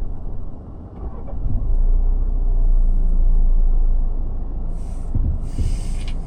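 Car driving, heard from inside the cabin: a steady low rumble of engine and road noise, with a hiss higher up joining about five seconds in.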